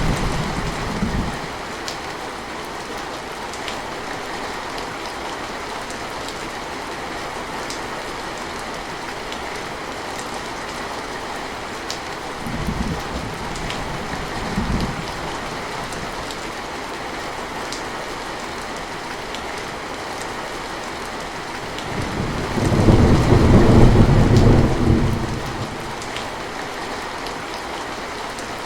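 Steady rain with light drop ticks. A rumble of thunder dies away about a second in, two short low rumbles come around the middle, and a louder, longer roll of thunder lasting about three seconds comes near the end.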